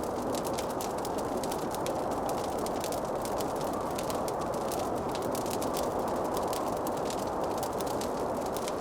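Wood fire burning in a fireplace: a dense, irregular run of small crackles and pops over a steady rushing hiss.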